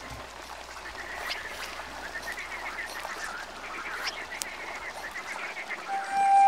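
Waterbirds calling in rapid runs of short notes. A flute melody starts near the end.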